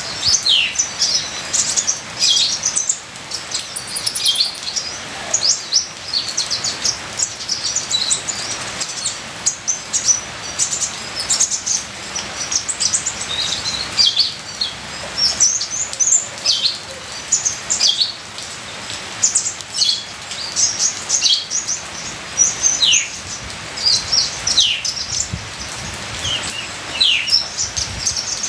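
Kolibri ninja sunbird singing a fast, busy song of short, thin, high chirps and quick downward-sweeping notes, closely packed with no real pauses, over a faint steady hiss of trickling rain water.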